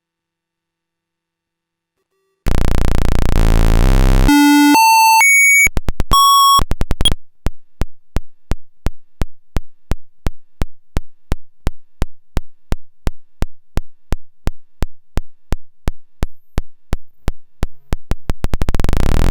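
Square-wave oscillators of a Jupiter Storm-style eurorack noise module. After a silent start, a loud buzzing tone comes in, jumps upward in pitch in steps, then breaks into a train of clicks, about three a second, that speed up near the end.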